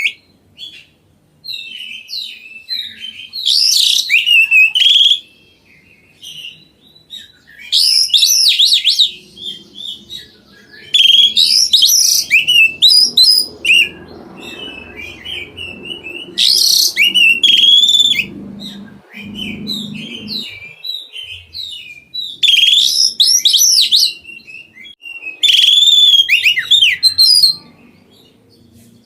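Oriental magpie-robin (kacer) singing loudly in rapid, varied phrases of whistles and chirps, about six strong bursts of one to two seconds each with softer twittering between them.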